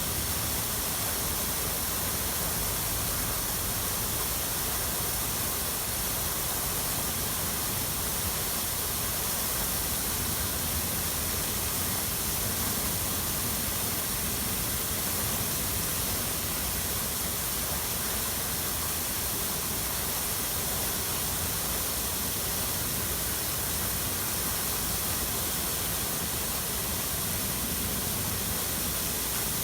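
Water rushing steadily, an even hiss with no breaks or separate events.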